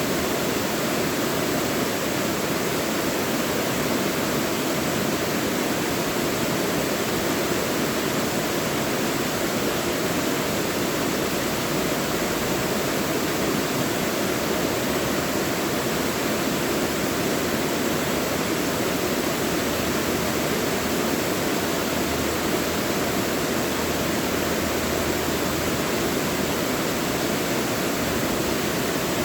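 Mountain valley stream rushing steadily over rocks: an even, unbroken wash of water.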